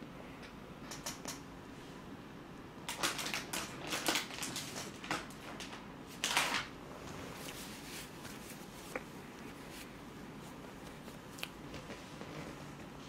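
Close-miked eating noises from a mouthful of cream-filled bread: a run of sharp wet mouth clicks and smacks, then a short rustle about six seconds in, with a few stray ticks after.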